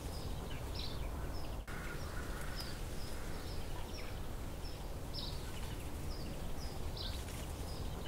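Outdoor ambience of small birds chirping in short, high, repeated notes over a steady low background rumble.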